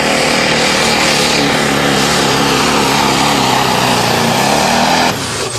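Diesel 4x4 pickup truck engine running hard under load while pulling the sled, its pitch wavering in the middle of the run, then dropping away suddenly near the end.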